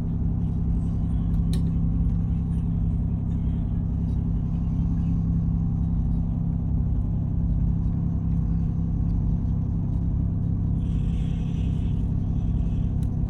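Ship's diesel engine running steadily under a slow-ahead order, a constant low drone heard on board. A brief hiss joins it near the end.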